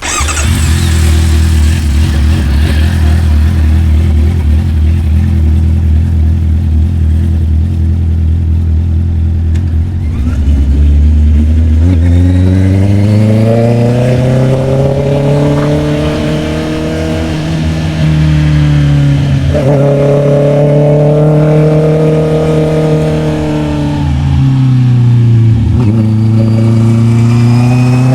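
Honda CB650R inline-four motorcycle engine under way, holding a steady low note at first. About halfway through, the revs climb, dipping briefly twice and rising again after each dip.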